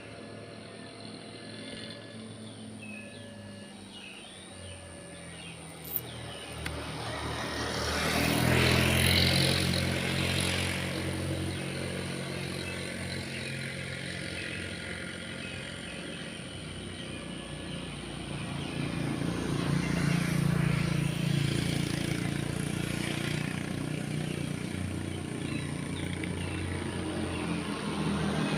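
Diesel engine of a CC201 diesel-electric locomotive running with a steady low engine drone that swells loudly about eight seconds in, eases, then builds again toward the end. A single sharp click sounds about six seconds in.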